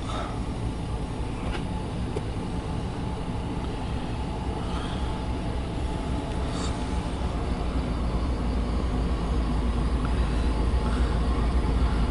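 Diesel locomotives of a CSX freight train rumbling past close by, heard from inside a vehicle cab. The low rumble grows steadily louder as the lead locomotive comes alongside.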